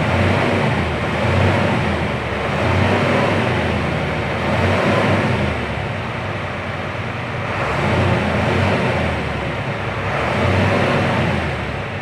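Isuzu 6HE1 inline-six turbo-diesel truck engine running, heard from inside the cab, its sound swelling and easing every two to three seconds. It runs without a knock, the air compressor that caused it now replaced and building air pressure quickly.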